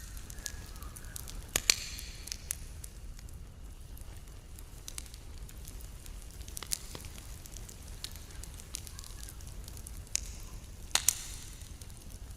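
Campfire burning, with irregular crackles and sharp pops from the wood over a low steady rumble; the loudest pops come about two seconds in and near the end.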